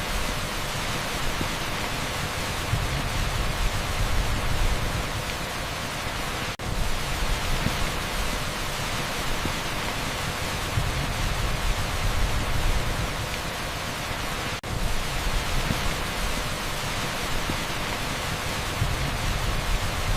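Torrential rain pouring onto an asphalt street, heard as a dense, steady hiss with a deep rumble underneath, layered with pink noise. The sound drops out for an instant twice, about six and a half seconds and fourteen and a half seconds in.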